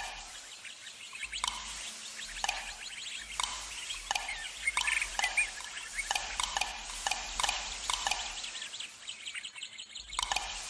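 An irregular run of sharp ticks, each with a short ringing note, coming faster in the middle, with brief high chirps over them.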